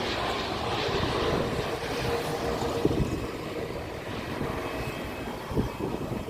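Airliner engines running: a low rumble with a faint steady whine above it, easing off about halfway through.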